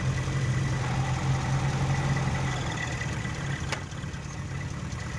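A 1979 Colt's engine idling steadily, heard from beneath the vehicle, its hum easing a little about halfway through. One sharp click comes about three and a half seconds in.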